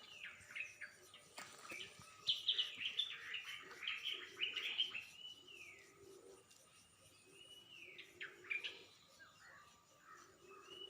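Wild birds chirping, with many quick falling notes in a busy run about two to five seconds in and another burst near the end.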